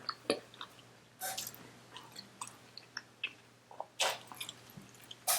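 Close-miked chewing of a mouthful of Chipotle burrito bowl: many small wet mouth clicks and smacks, with three louder brief smacks, about a second in, around four seconds in and at the very end.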